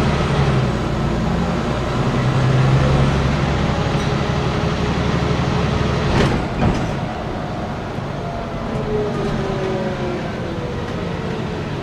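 Scania N94UB bus's diesel engine running under load, heard from on board. A couple of thumps about six seconds in, then the engine eases off and a whine falls slowly in pitch as the bus slows.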